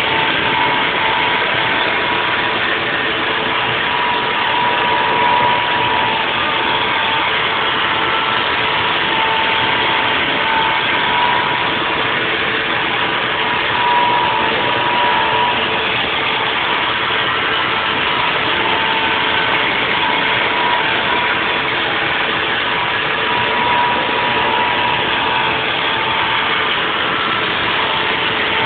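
Haas VF4 CNC vertical mill running a 3D milling job: steady machine noise with a constant whine that swells and fades slightly.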